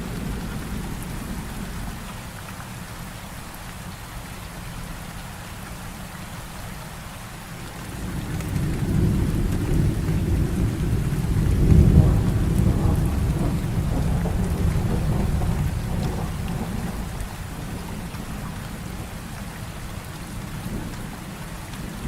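Heavy rain falling steadily, with a long low roll of thunder that builds about eight seconds in, peaks a few seconds later and slowly dies away.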